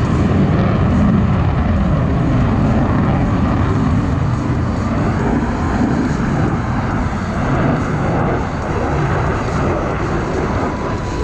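F-16 fighter jet's engine noise during a display pass, loud and steady.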